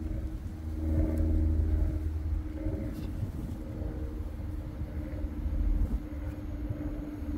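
Diesel train engine running: a steady low rumble with a droning hum over it, swelling about a second in.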